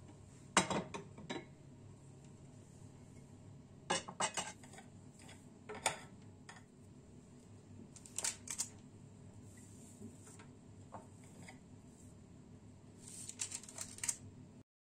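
Kitchen dishes and utensils clinking and clattering in short, irregular clusters over a quiet room hum, busiest near the end.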